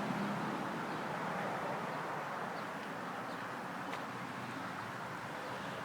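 Steady low outdoor background noise with no distinct source, and a faint click about four seconds in.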